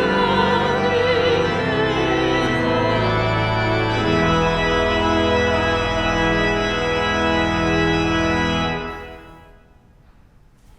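Church organ playing sustained chords under wavering voices in the first seconds, closing on a final held chord about nine seconds in that dies away in the cathedral's reverberation.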